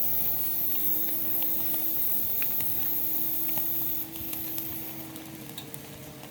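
Wood and charcoal fire crackling with scattered small pops, under a steady high-pitched drone of night insects that stops about four seconds in.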